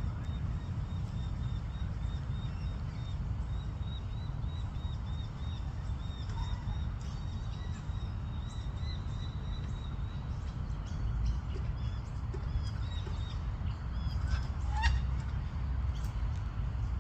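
Birds calling: a quick run of short, high chirps, then a few sharper calls near the end, over a steady low rumble.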